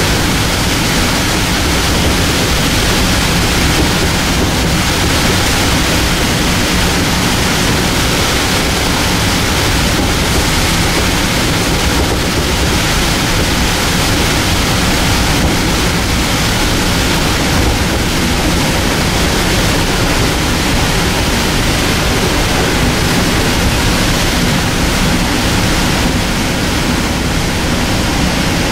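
Steady rumble and rush of a Metro-North electric multiple-unit commuter train running at speed, heard from inside the passenger car.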